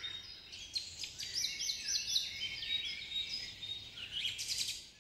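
Small birds chirping: a steady run of short, high chirps, several a second.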